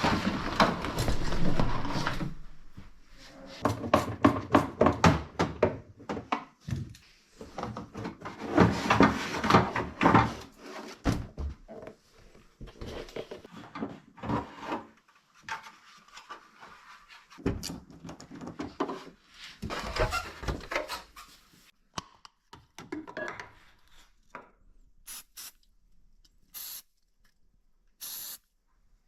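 Hands-on work removing car body parts and trim: bursts of scraping and rubbing with many sharp clicks, thinning to a few separate clicks near the end.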